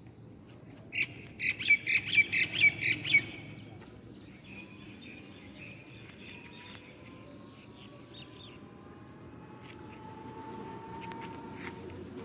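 A bird calling a rapid run of about ten loud, shrill chirps in about two seconds, then fainter, scattered chirps, over a low steady background hum.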